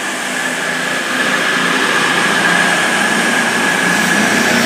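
Class 221 Super Voyager diesel-electric unit's underfloor diesel engines running hard with a steady high whine as the train pulls away, getting a little louder about a second in.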